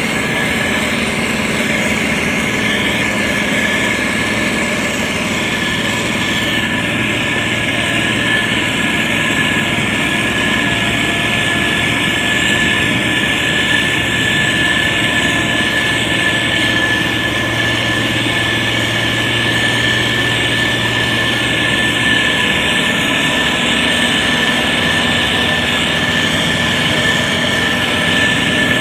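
Motor grader's diesel engine running steadily under work, with a steady high whine over the engine hum.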